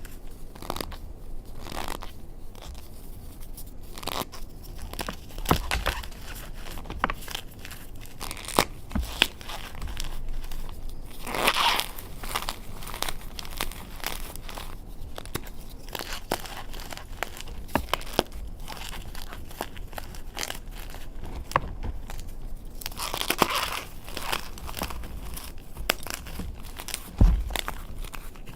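Cornstarch-coated gym chalk blocks being crushed and crumbled, giving many small sharp crackles and the squeaky crunch of compressed cornstarch, with two longer, louder crunching spells, one near the middle and one near the end.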